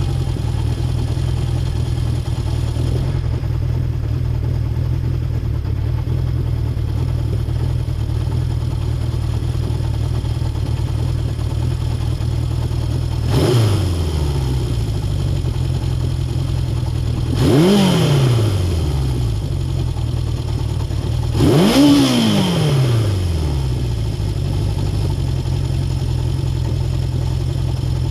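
Honda CB750 Four's inline-four engine idling steadily. It is revved three times in the middle stretch, each rev rising and dropping back to idle, the last one highest.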